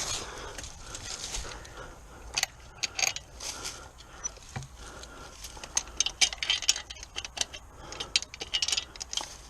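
Irregular light metallic clinking and rattling, many short clicks close together.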